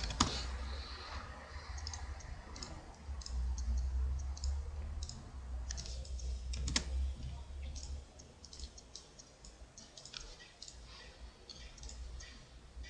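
Irregular clicks of a computer mouse and keyboard, with one louder click about seven seconds in, over a steady low hum.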